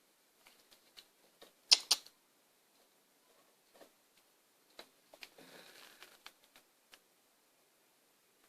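A Dalmatian puppy moving about: scattered light taps and clicks, two sharper knocks just under two seconds in, and a short rustle a little past five seconds in.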